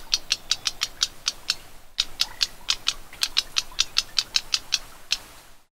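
Black-browed reed warbler calling: a fast, even run of short ticking notes, about five or six a second, with a brief silence near the end.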